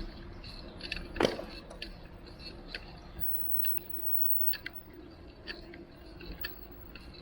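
Bicycle rattling and clicking as it rides over the street, with irregular small clicks and one louder knock about a second in, over a low steady hum.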